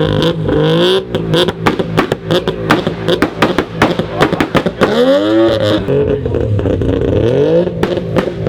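A loud car engine being revved again and again, its pitch climbing and dropping several times, with a quick run of sharp cracks in the first half.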